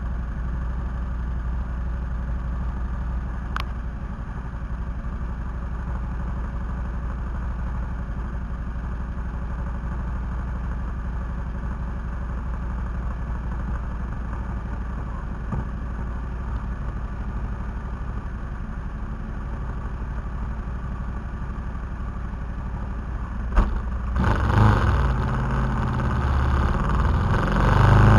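KTM 990 SMT's V-twin engine idling steadily, with a faint click about four seconds in. Near the end comes a sharp knock, then the engine revs up and gets louder as the bike pulls away.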